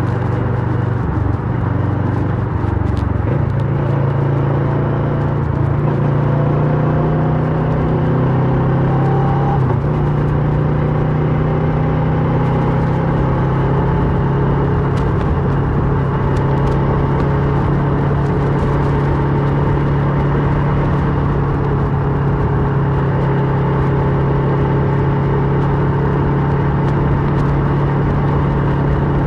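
Kawasaki Versys 650 parallel-twin engine through a Mivv slip-on exhaust, riding under way. Its pitch rises over the first ten seconds, drops briefly about ten seconds in, then settles into a steady cruise.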